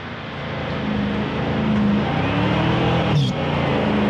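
Jeep's engine revving up under load as it drives out over traction boards, its pitch rising and then holding. A short sharp knock sounds about three seconds in.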